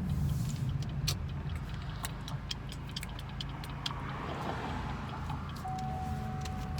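Car engine running at low speed, heard from inside the cabin as a steady low hum, with scattered light clicks and ticks. A steady held tone comes in near the end.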